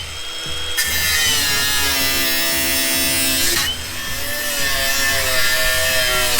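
Handheld power tool running at high speed on the old truck's metal body, starting sharply about a second in, with a harsh hiss and a whine that wavers in pitch as the load changes.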